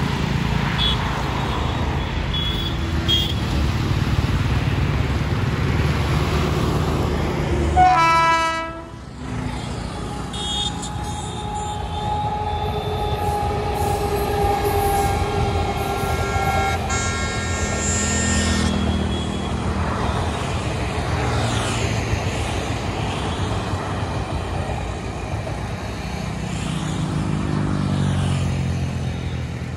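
WAP-7 electric locomotive hauling a passenger train past at speed. A steady rumble comes first, then a short air-horn blast about eight seconds in. A longer horn note follows, its pitch falling slightly. The coaches' wheels then rumble past on the rails.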